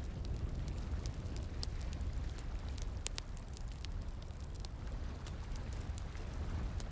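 Bonfire crackling, with frequent irregular sharp pops, over the steady rushing of flowing water.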